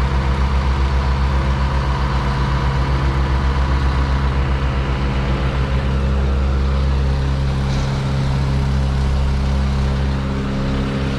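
Heavy truck engine running steadily with a deep drone, pulsing for the first half and then evening out.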